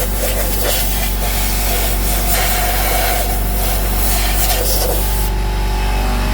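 Compressed air blasting through a vintage Singer 111W sewing machine from an air compressor's blow gun at high pressure, over the steady hum of the running compressor. The air blast stops about five seconds in.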